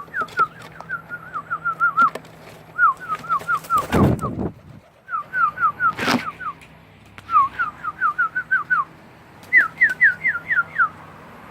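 Whistling: five quick runs of short, falling whistled notes, six to eight notes to a run, with two loud bumps about four and six seconds in.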